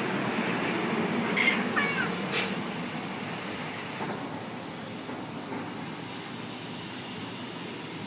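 A Scottish Fold cat gives a brief, faint chirping meow about two seconds in, over a steady low background rumble.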